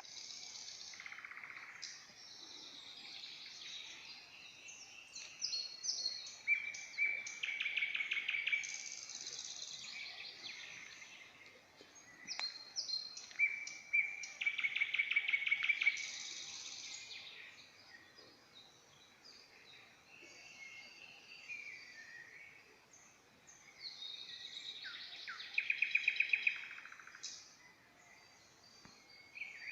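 Several songbirds singing together in a woodland chorus, with overlapping varied phrases. One bird gives a loud, fast trilled song three times, about seven seconds apart.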